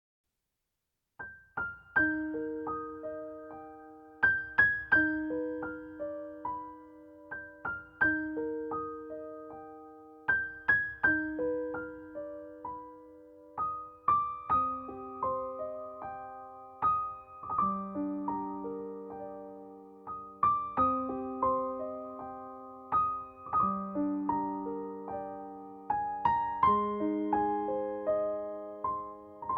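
Solo piano music: single notes and chords struck and left to ring and fade, in a slow repeating figure. It starts about a second in.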